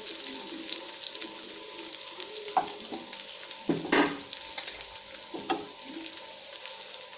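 Roti-and-potato tikkis shallow-frying in oil in a nonstick pan, sizzling and crackling steadily. A wooden spatula scrapes and knocks against the pan three times, loudest about four seconds in, as the tikkis are pushed and turned.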